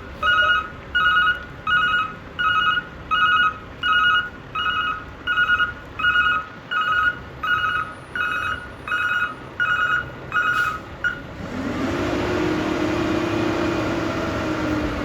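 Roll-off truck's reverse alarm beeping steadily, about one and a half beeps a second. It stops about eleven seconds in, and a steady mechanical drone from the truck with a held tone takes over.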